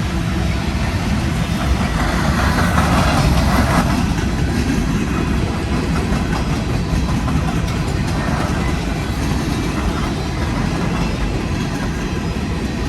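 Freight train rolling past: a steady rumble of steel wheels on the rails, with clacking over rail joints.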